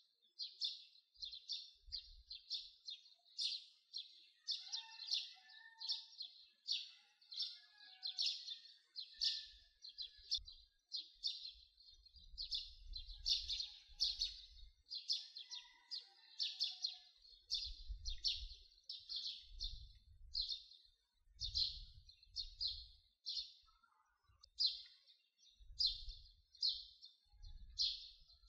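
Birds chirping without pause, short high notes coming several times a second, with low rumbles now and then underneath.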